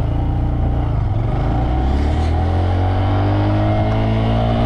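Motorcycle engine under way and accelerating, its pitch rising steadily over the last few seconds, over a heavy low rumble.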